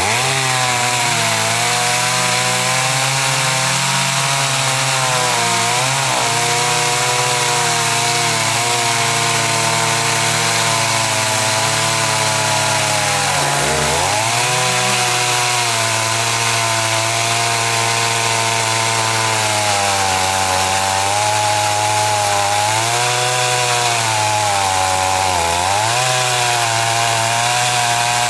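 Chainsaw running at high revs, cutting into a large mahogany tree; its engine note dips and recovers several times as it takes load, sharply about 14 seconds in.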